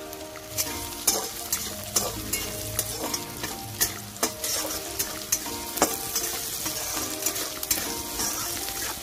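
Chopped onion sizzling as it fries in hot oil in a kadai, while a flat metal spatula stirs it, clicking and scraping against the pan about twice a second.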